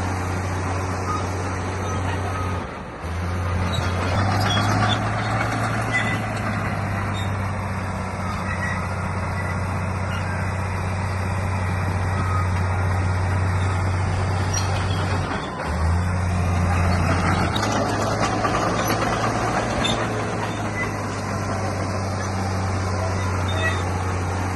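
Heavy diesel earthmoving machine engine running steadily under load. It dips briefly twice, about three seconds in and again about two-thirds of the way through, and runs louder for a moment after each dip.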